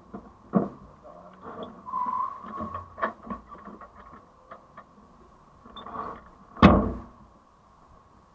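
A car's engine idling steadily while it sits in a queue, with a few soft knocks and one loud thump about six and a half seconds in.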